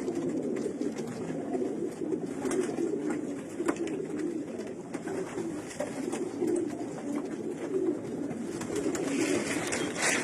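Domestic pigeons cooing without a break, the low coos overlapping. A few faint clicks, and a short rustle near the end.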